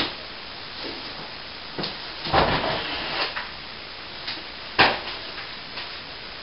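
Irregular knocks and a rough scraping clatter of broken plasterboard pieces being handled and dropped, with the longest crash about two and a half seconds in and a sharp knock near five seconds.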